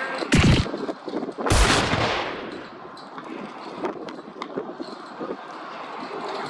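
Strong wind gusting onto the microphone: two loud buffeting blasts with a deep rumble, a short one just after the start and a longer one about a second and a half in. Between them is a steady rush of wind with small scattered clicks.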